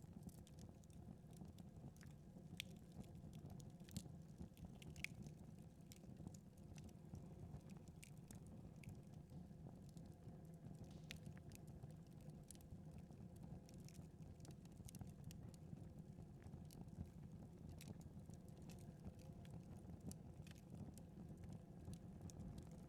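Faint crackling of a wood fire in a fireplace: scattered sharp pops and snaps, irregular, over a low steady rush.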